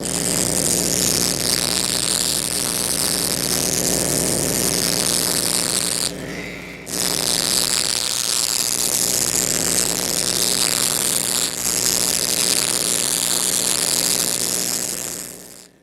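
Horror sound effect: a harsh, static-like hissing drone over a steady low hum. It drops out briefly about six seconds in, then returns and fades away at the end.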